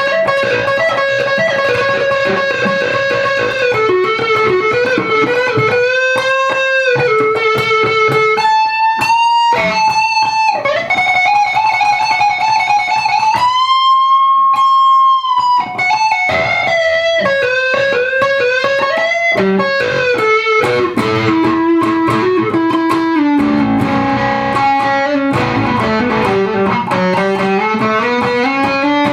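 Lavish PTR electric guitar with Seymour Duncan humbuckers, played through distortion: a lead line of held, bent notes with wide vibrato, including a long high sustained note about halfway through, then faster runs of notes near the end.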